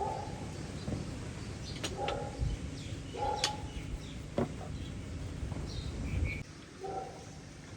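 Birds calling: several short low coos, typical of doves, and a few higher chirps, with a handful of sharp clicks and a steady low rumble underneath.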